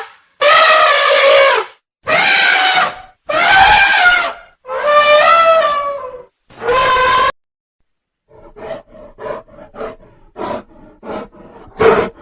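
An animal calling: five long, horn-like calls of about a second each, then a quick series of short grunts.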